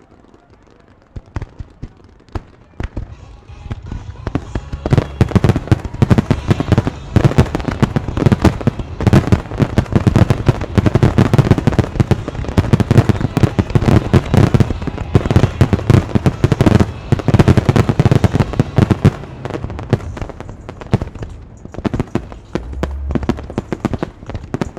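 Aerial fireworks display: a few scattered bangs at first, then from about four seconds in a dense, rapid barrage of bursting shells and crackles, thinning out near the end.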